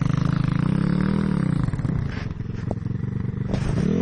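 Motorcycle engine revving up and down: the pitch falls at the start, climbs to a peak about a second in, drops and holds lower, then climbs again near the end.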